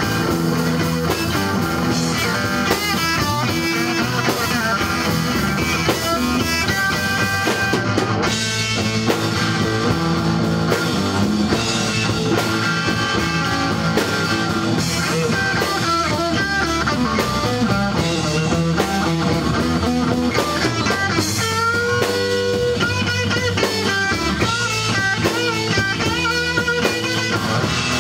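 Rock band playing, electric guitar and drum kit, with bending guitar notes.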